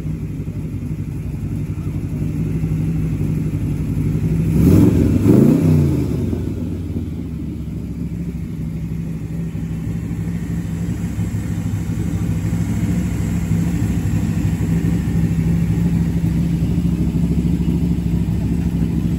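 A car engine running steadily at idle. About five seconds in, a louder engine note rises and then falls once.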